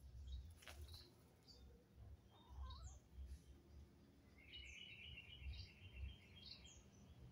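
Faint outdoor birdsong: scattered short chirps, with a rapid trill lasting about two seconds past the middle.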